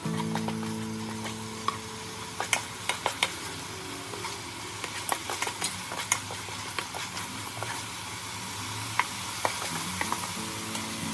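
Chopped aromatics and dried chillies sizzling in oil in an aluminium pot while a metal ladle stirs them, with frequent sharp clinks and scrapes of the ladle against the pot, thickest in the first half and thinning out later.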